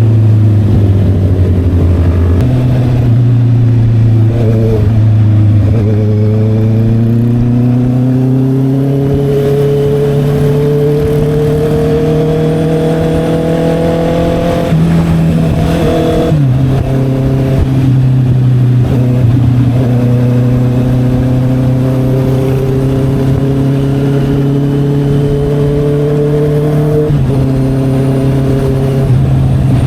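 Honda CB650R inline-four motorcycle running through an SC Project aftermarket exhaust and accelerating steadily. Its pitch climbs slowly and drops at gear changes about 15 and 27 seconds in.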